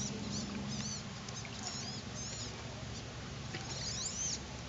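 Birds chirping: many short, high squeaky chirps that rise and fall, repeated irregularly, over a steady low hum.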